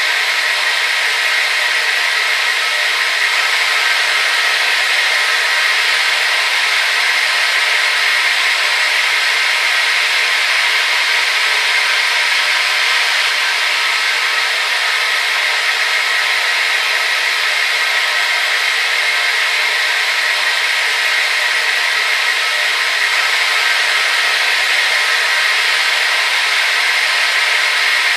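Hair dryer running steadily: an even, unbroken rush of blown air with faint steady tones from the motor inside it, and no deep rumble.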